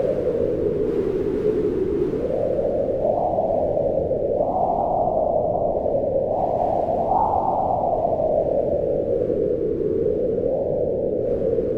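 Wind blowing steadily with a hollow, moaning tone that swells and rises in pitch in gusts about halfway through, then sinks again.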